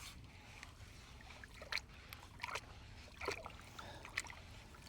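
Gold pan being worked in a tub of water, with water sloshing and four short splashes about a second apart.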